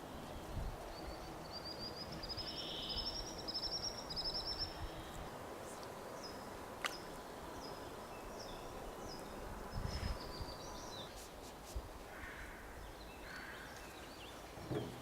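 Small birds singing: a fast high trill, then a run of short, high, falling chirps, over a quiet outdoor background with an odd faint click.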